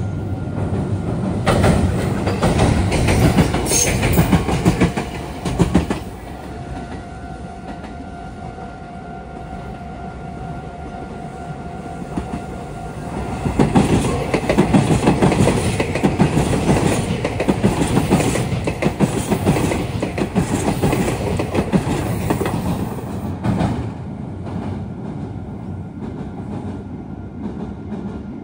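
Meitetsu electric trains passing through a junction, wheels clattering over the points and rail joints. One train passes in the first six seconds, and another, louder pass runs from about 14 to 23 seconds in.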